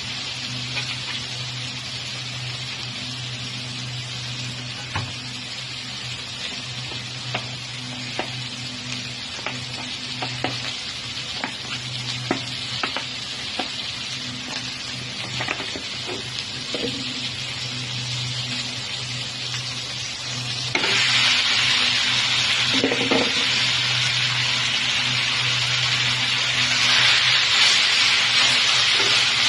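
Chopped onion, ginger and garlic sizzling in oil in a frying pan, stirred with a spatula that clicks and scrapes against the pan now and then. About two-thirds of the way through, the sizzle turns abruptly louder as raw chicken pieces go into the pan. A low steady hum runs underneath.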